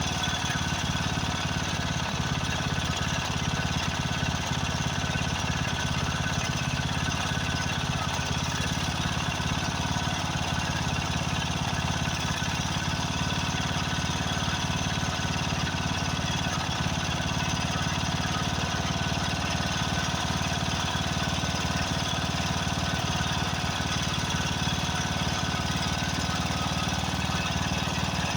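A 13.5 hp Briggs & Stratton overhead-valve single-cylinder engine on a Craftsman riding mower running steadily, with a rapid pulsing beat. The owner suspects the fuel mixture needs adjusting, though he fears a blown head gasket.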